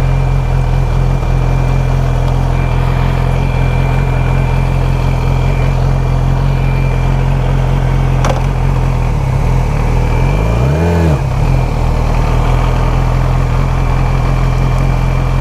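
Motorcycle engine idling steadily, with a brief rise and fall in pitch about eleven seconds in and a single click a little before it.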